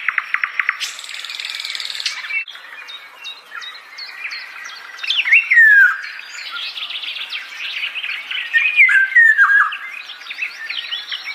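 Birds chirping and calling, several voices overlapping: a rapid trill at the start, then repeated whistled notes that slur downward, around five and nine seconds in.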